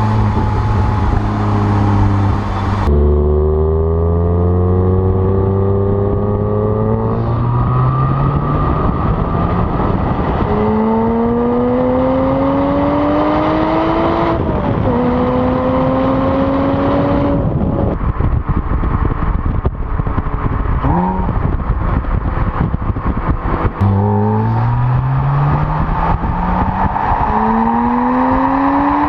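Porsche Cayman S flat-six engine through its sport exhaust, accelerating hard up through the gears: the pitch climbs steadily in each gear and drops at each upshift. About halfway through it comes off the throttle with a couple of short rev blips, then pulls hard and rising again near the end.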